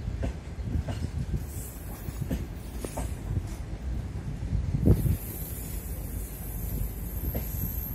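Passenger coaches of a train rolling past alongside the platform: a steady low rumble of wheels on rail with repeated clacks as the wheelsets cross rail joints, and one louder knock about five seconds in.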